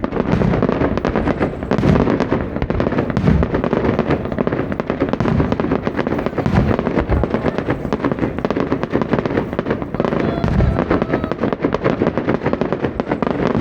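Aerial fireworks bursting in a rapid barrage: deep booms one after another, mixed with dense crackling.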